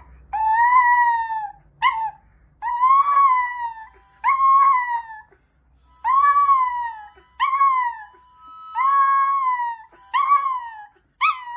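A dog crying in a run of about nine high, drawn-out howling whines, each rising and then falling in pitch, some long and some short.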